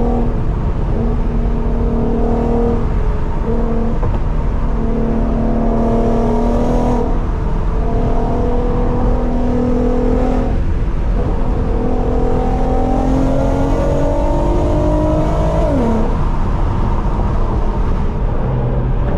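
Nissan VQ V6 engine heard while driving, over a constant low road rumble. The engine note holds steady for a few seconds at a time with several brief dips, then rises steadily under acceleration and drops sharply near the end as the throttle is let off or a gear is changed.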